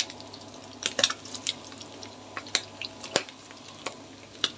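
Pieces of lung frying in hot oil in a pan: a low steady sizzle with scattered sharp crackles and pops of spitting oil.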